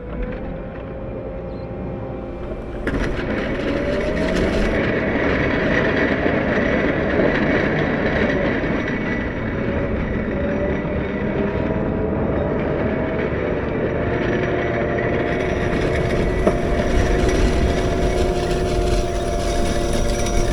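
Caterpillar 908 compact wheel loader's diesel engine running steadily, with a few held whining tones over it. It revs up and gets louder about three seconds in.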